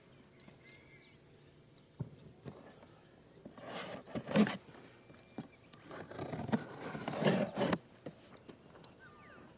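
Two bursts of rustling and scraping, the first about a second long and the second nearly two, with faint bird chirps in the quieter stretches.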